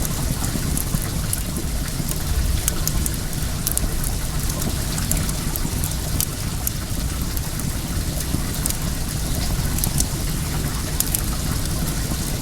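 Well water running steadily, with the crackle of a wood fire: many small sharp pops scattered throughout over the rush of water.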